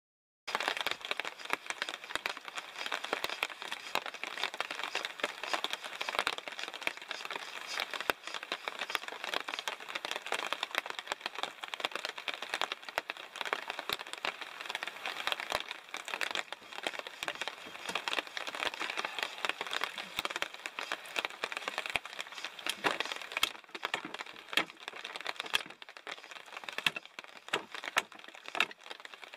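Rain pattering densely on a tarp overhead: a steady crackle of many small drops. In the last several seconds there are louder knocks and cracks from a hatchet striking dead wood.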